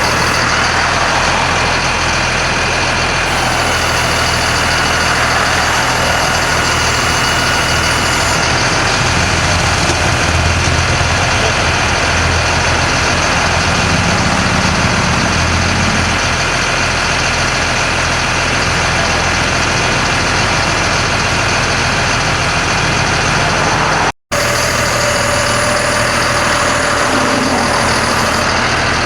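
Caterpillar diesel engine of a 1991 GMC Topkick bucket truck running steadily. The sound breaks off for an instant about three-quarters of the way through.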